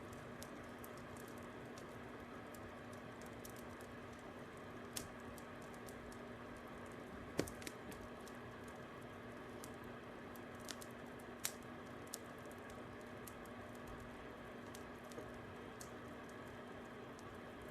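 Fire crackling quietly: a steady soft hiss with scattered, irregular sharp pops, the loudest about seven seconds in.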